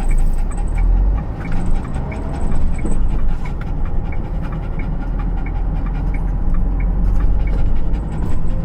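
Steady low rumble of a vehicle underway, with faint light ticks repeating about twice a second.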